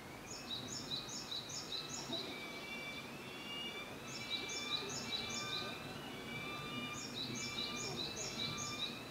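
Peregrine falcons calling: three bouts of rapid, repeated shrill notes, about four a second, from the adult female, with the chick's thin, faint whistled begging calls between and under them.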